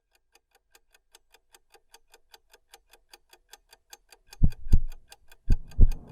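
Clock-ticking sound effect, steady ticks fading in. About four seconds in, deep low thumps join in pairs, like a heartbeat.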